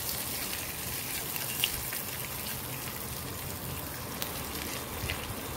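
Raw cut vegetables frying in hot mustard oil in a kadai: a steady sizzle, with a couple of faint clicks.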